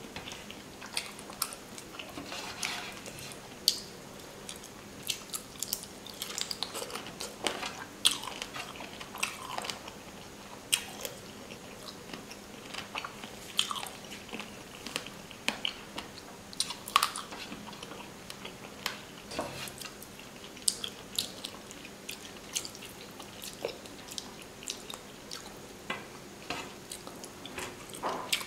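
A person chewing rice and fish curry, with wet mouth clicks and smacks at irregular intervals, while his fingers work the rice on a steel plate.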